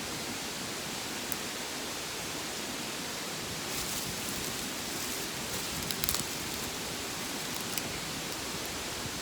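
Steady outdoor rushing noise, like a nearby stream or wind in the trees, with a few faint clicks and rustles, a small cluster of them about six seconds in.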